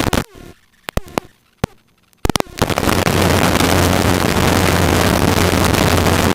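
Helicopter rotor and engine noise picked up through an open intercom microphone, a loud steady rush with a low hum. It drops out abruptly just after the start, leaving clicks, then cuts back in about two seconds in, the pattern of a voice-activated intercom squelch opening and closing.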